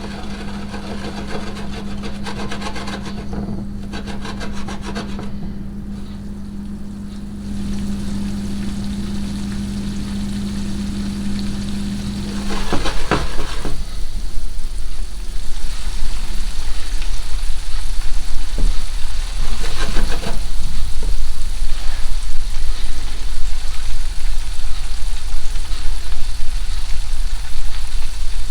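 A steady low hum for the first half, which stops about halfway through. Then louder, rapid scraping and rubbing of a utensil being worked in a pan or bowl, as when stirring or mashing food.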